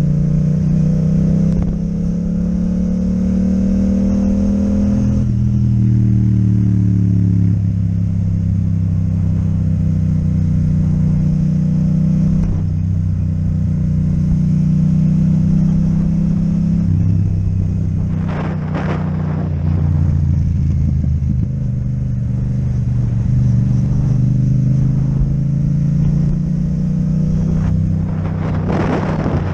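Yamaha MT-07 parallel-twin engine with an Akrapovic exhaust, running under way. It climbs in pitch for the first few seconds, drops about five seconds in as it shifts up, and then holds a fairly steady pitch.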